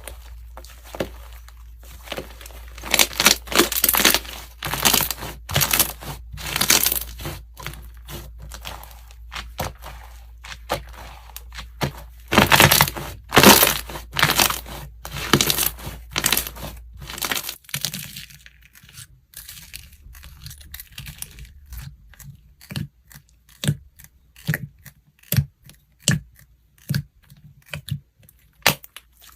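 Slime being pressed, stretched and squished by hand, making rapid crackling pops and crinkly snaps in uneven clusters. The crackles are dense and loud through the first half and become sparser and softer in the last third.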